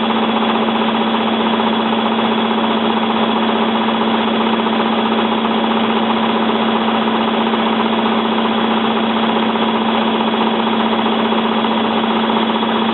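Hotpoint 9534A washing machine spinning, a steady loud motor whine over a strong hum, with no change in speed. The load of towels is unbalanced, which the owner takes for the cause of the machine's repeated suds lock.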